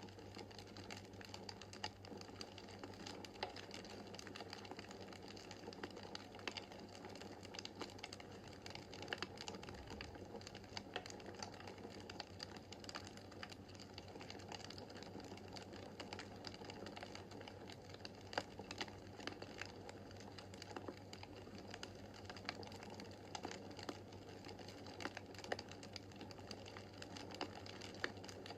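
Wood fire crackling steadily in a fireplace: a constant soft hiss of the flames with many small irregular snaps and a few sharper pops.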